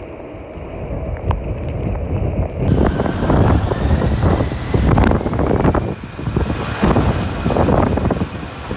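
Strong wind buffeting the microphone in gusts, stronger after about three seconds, with a faint high whine that rises slightly through the middle.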